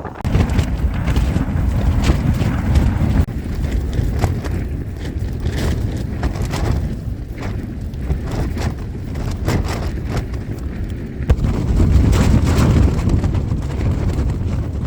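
Strong gale-force wind buffeting the microphone with a heavy rumble, with tent fabric flapping and snapping in the gusts. The gusts swell hardest near the start and again about two-thirds of the way through.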